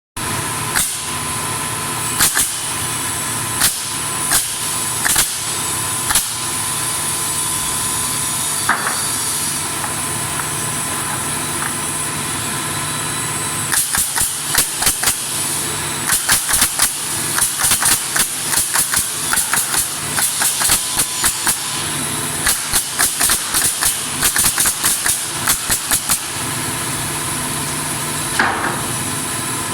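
Workshop machinery running with a steady drone while pallet boards are nailed: sharp knocks, single and spaced out at first, then coming in quick rapid runs through the middle and later part.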